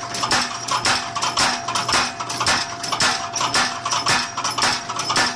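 Motor-driven mechanical power hammer running, its ram striking the anvil in a steady rhythm of sharp metallic clangs, about two strong blows a second, over a steady motor hum.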